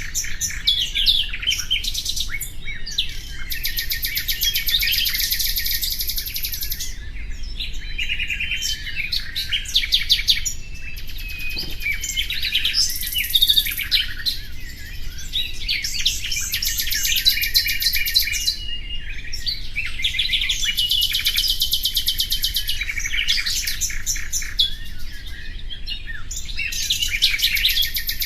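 A songbird singing continuously in long phrases of fast, high trills and rapidly repeated notes, each phrase lasting a few seconds with short breaks between.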